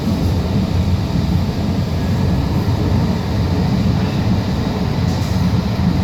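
Cabin noise of an Alstom Citadis Spirit light-rail train running between stations: a steady low rumble of wheels on rail and running gear.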